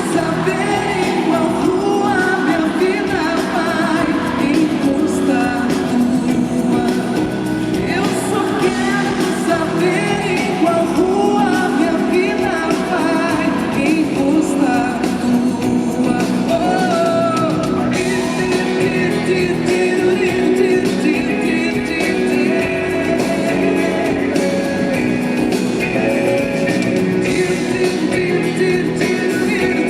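Live band performing a pop song, with singing over guitar and band accompaniment.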